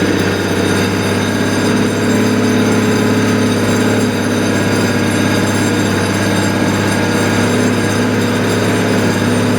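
A heavy engine running steadily at a constant speed.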